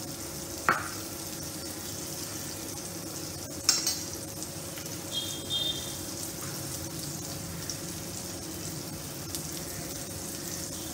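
Potol (pointed gourd) pieces frying in oil in a pan, with a steady sizzle throughout. A few light clinks of a metal spoon against a bowl and a jar come about a second in, near four seconds in, and once more a little later.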